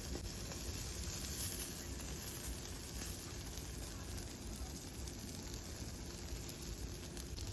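Fire burning with a steady hiss and a few faint crackles.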